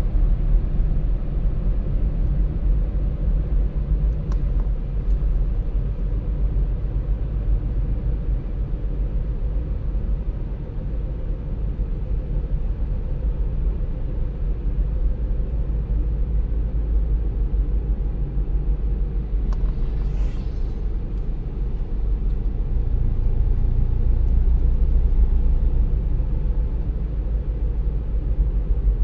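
Car driving along a road: a steady low rumble of tyres and engine, with a brief hiss about twenty seconds in and a slight swell in loudness a few seconds later.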